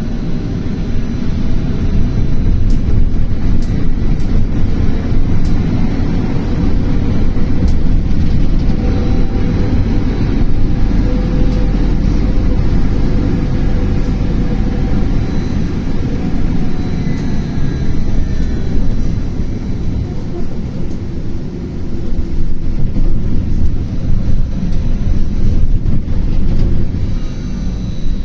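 BKM-32100D trolleybus running, heard from inside the cabin: a steady, loud low rumble of road and body noise, with a faint whine from the electric drive.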